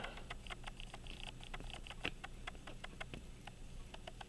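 Faint, quick ticking of an 18-size key-wound Illinois Springfield pocket watch movement's escapement, about five to seven ticks a second, uneven in strength. The freshly cleaned movement runs, but not well.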